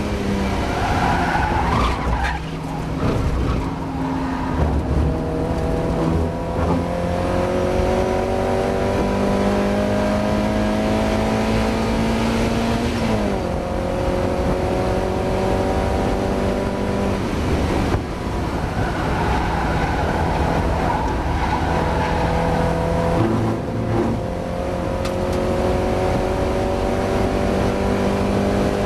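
Mazda MX-5 race car's four-cylinder engine heard from on board under hard acceleration, the pitch climbing through each gear and dropping at three upshifts, in a car its driver says is struggling with a misfire. Tyres squeal briefly near the start and again about two-thirds of the way through, as in cornering.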